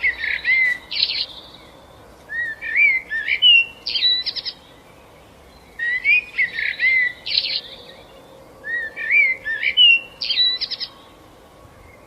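A songbird singing four short, repeated phrases of quick rising and falling whistled notes mixed with rapid rattly notes, a pause of about a second or two between phrases.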